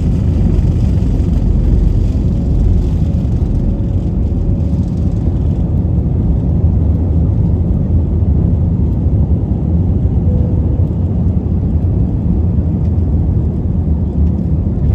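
Steady low rumble of an Airbus A321's jet engines and rushing air, heard from inside the passenger cabin.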